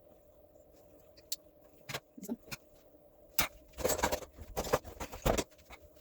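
Handling noises: a few separate sharp clicks, then about two seconds of clattering and rattling from a little past the middle.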